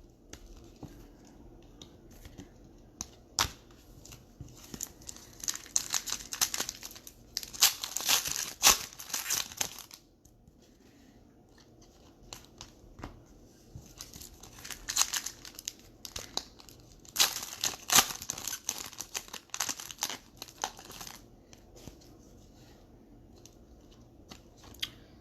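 Trading-card pack wrappers being torn open and crinkled in the hands, in two long bouts of crackling with scattered sharp clicks and quieter handling between.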